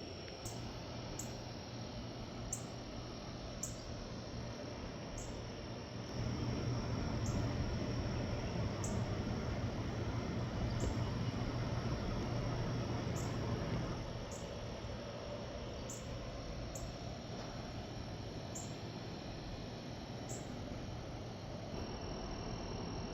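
Short, very high insect chirps, typical of a cricket, repeating about once a second over steady outdoor background noise. A louder low rumble comes in about six seconds in and fades out about eight seconds later.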